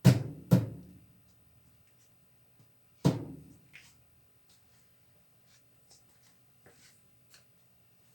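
Three hard knocks with a short ringing decay, two in quick succession and a third about three seconds later, then light clicks and taps: parts and tools knocking during washing-machine reassembly.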